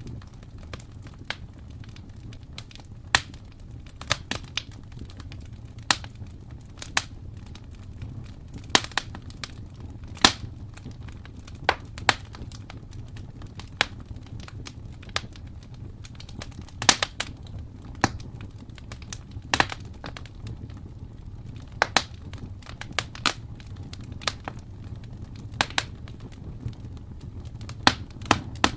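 Wood fire crackling in a fireplace: sharp, irregular pops, a few of them much louder, over a low, steady rumble.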